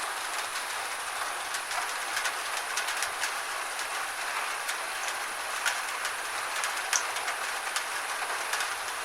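Steady gentle rain falling, with scattered sharp drops ticking irregularly over the even hiss.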